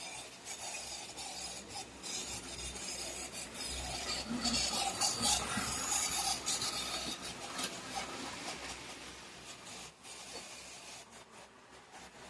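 Tyco HO-scale model locomotive running on the layout's track with a rasping whir of motor and wheels. It gets louder about halfway through and fades toward the end as it passes and moves away. The owner thinks its motor needs checking.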